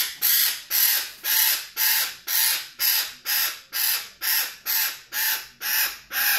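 A restrained bird squawking harshly over and over, at about two calls a second, while it is held for a blood draw.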